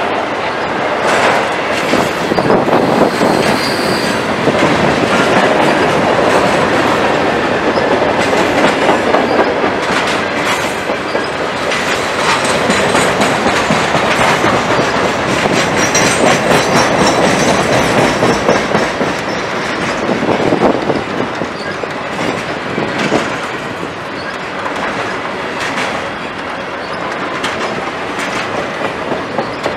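Freight train cars rolling past at close range, their steel wheels clacking steadily over the rails. Faint high-pitched wheel squeal comes in now and then.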